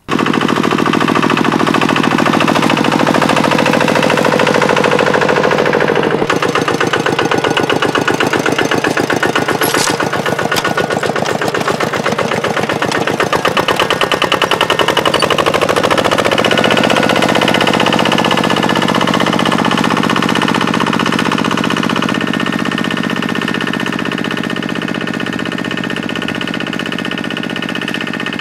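Small engine of farm machinery running steadily with a rapid, even chugging. Its note shifts about six seconds in and again around seventeen seconds.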